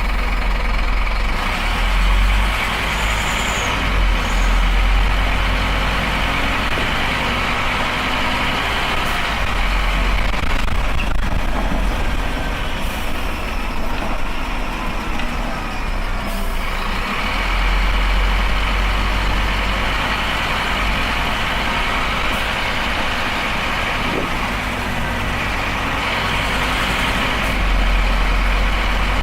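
Diesel engine of a Scania Esteem bus running under way, its note shifting a few times as it pulls and changes gear.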